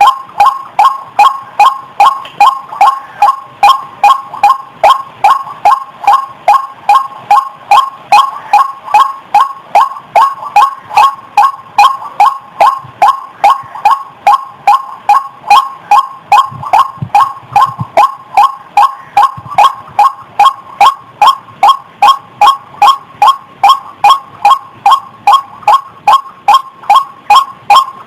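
White-breasted waterhen (ruak-ruak) calling: a steady, rapid run of short, identical 'kwak' notes, about two and a half a second.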